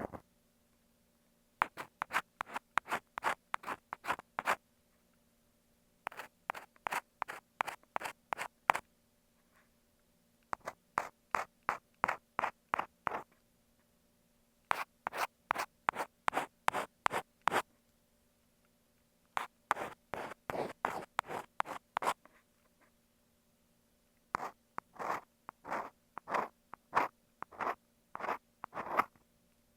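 Ear pick scraping against an earphone microphone, imitating ear cleaning. The strokes come in six runs of a few seconds each, about three or four scrapes a second, with short pauses between runs.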